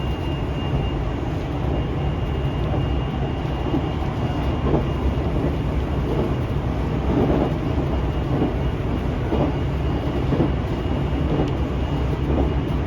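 Running noise heard from inside the cabin of a JR Central 373 series limited express electric train: a steady low rumble with occasional faint knocks from the wheels, and a thin steady high whine.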